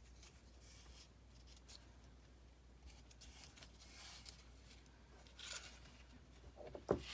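Quiet handling of paper and lace at a craft table: soft rustles and scrapes, with a sharp click or snip near the end, the loudest sound.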